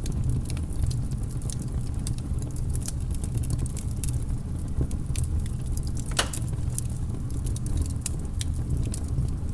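Wood fire burning in a fireplace: a steady low rumble with many small, irregular crackles, and one louder pop about six seconds in.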